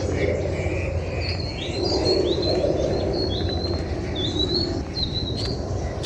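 A bird calling over and over, short high chirps about two a second, over a steady low outdoor rumble.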